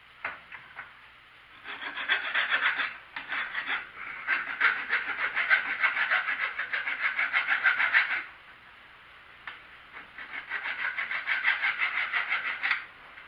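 Hand file rasping over steel in quick, even back-and-forth strokes, deburring freshly drilled and tapped T-nuts. The strokes come in three runs, the longest in the middle, with short pauses between.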